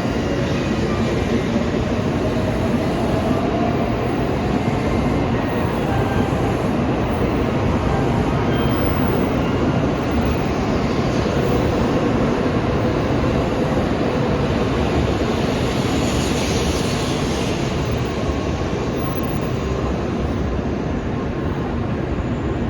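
Tokaido Shinkansen train running in alongside a station platform, a steady loud rush of wheels and running gear, with a brief rise in high hiss about three quarters of the way through.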